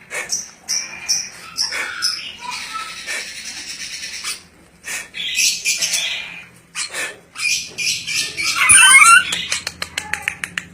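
Ornate lorikeet calling: a run of shrill chirps and screechy squawks, with a loud wavering squeal near the end followed by a quick series of clicks.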